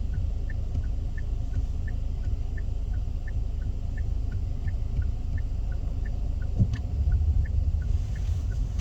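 Car engine idling with a steady low rumble while the indicator relay ticks in an even tick-tock, about three ticks a second. A short low thump comes about six and a half seconds in.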